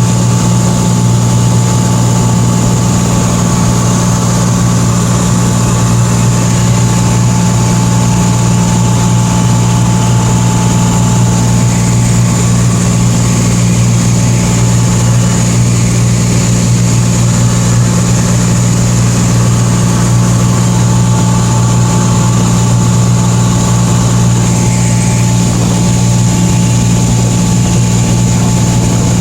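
Steady drone of a light aircraft's engine and propeller, even throughout, with a thin high whine over the low hum.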